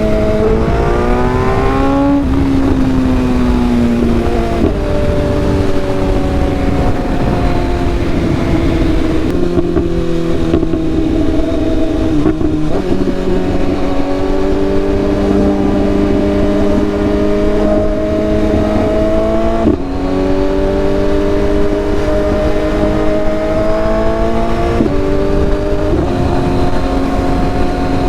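Sport motorcycle engine under way: its note climbs, then drops sharply at each of several gear changes, with some stretches held at a steady pitch. Steady wind rush over the rider's microphone runs beneath it.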